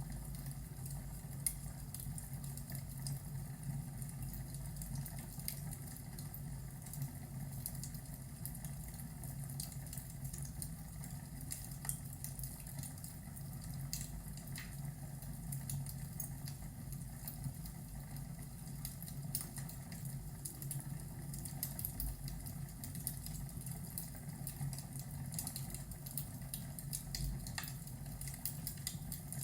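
Crackling fire ambience: scattered sharp crackles and pops over a steady low rumble.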